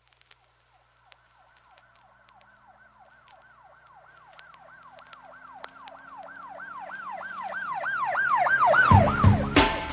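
Siren-like wail that swoops down in pitch over and over, about three or four times a second, growing steadily louder over several seconds. About a second before the end, a loud hip-hop track with a heavy beat cuts in.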